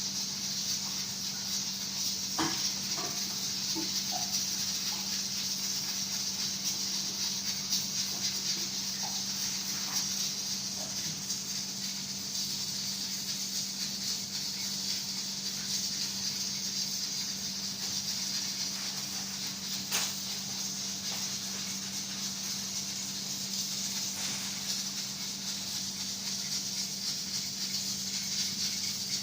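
A steady hiss with a low hum under it, and a few faint short calls from zebra finches a couple of seconds in. A single sharp click about twenty seconds in.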